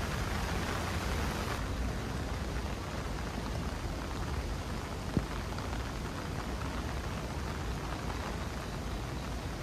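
Steady rain falling, an even hiss, with a single sharp tap about five seconds in.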